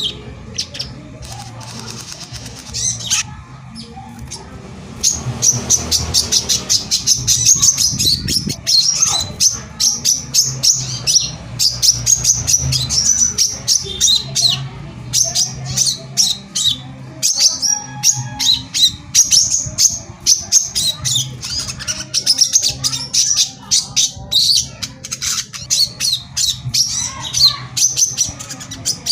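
Sogon bird singing: rapid runs of sharp, high chirps that become dense and continuous from about five seconds in, over a faint steady low hum.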